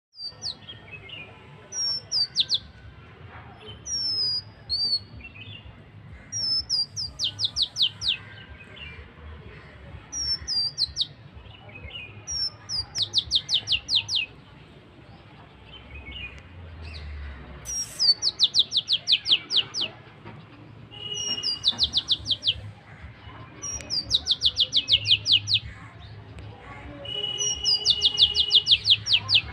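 A songbird singing, repeating a phrase every couple of seconds. Each phrase is a quick run of high, sharply falling notes, and the phrases grow louder and longer toward the end.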